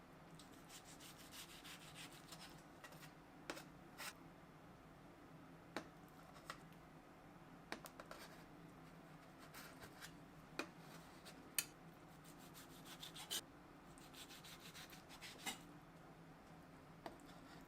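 Quiet kitchen handwork: soft rubbing and scraping strokes broken by light, sharp taps of utensils on dishes, the loudest tap about two thirds of the way in.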